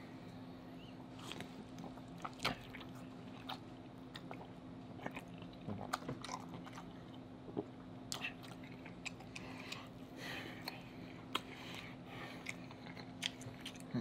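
Close-miked mouth sounds of eating butter-sauced king crab and lobster meat: chewing and biting, with irregular sharp wet clicks and smacks. A faint steady low hum runs underneath.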